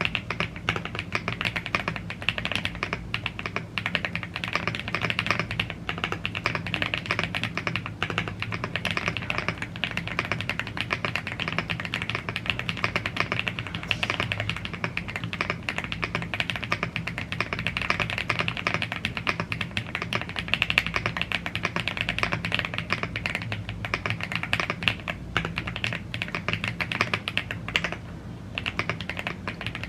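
Continuous fast typing on a YUNZII AL75 gasket-mounted aluminium mechanical keyboard with Blue Grey tactile switches and double-shot PBT Cherry-profile keycaps: a dense stream of keystroke clacks, with a brief pause near the end.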